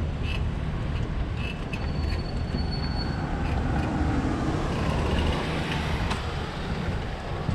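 Ride noise from a bicycle-mounted camera on wet city streets: a steady low rumble of wind and tyres with scattered small clicks and rattles. A thin high whine rises about two seconds in and lasts about a second.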